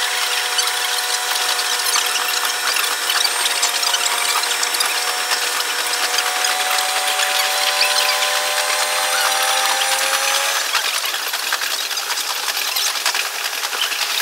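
Running sound of a diesel railcar, sped up sixfold so that it turns high and chattering. The engine and transmission whine glides slowly upward and drops out about ten seconds in, over fast, dense clattering ticks from the wheels and track.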